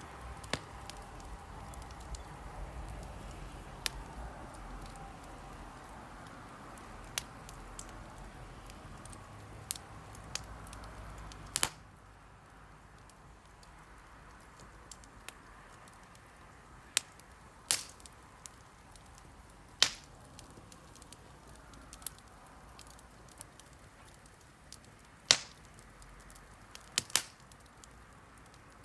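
Wood campfire crackling: scattered sharp pops and snaps over a low steady hiss. The hiss drops away about twelve seconds in, leaving sparser pops on a quieter background.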